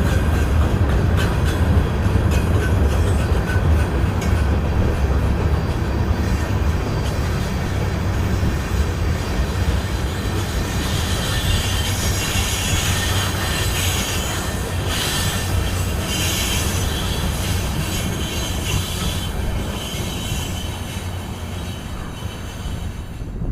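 Union Pacific freight train rolling past with a steady, loud rumble of rail cars on the track. Wheel squeal rises over it from about halfway through and fades near the end.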